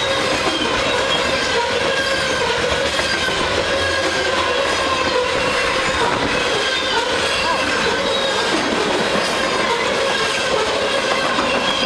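A Canadian Pacific freight train's cars rolling past, steel wheels squealing against the rails over a steady rumble and clatter. Several squeal pitches waver and overlap throughout.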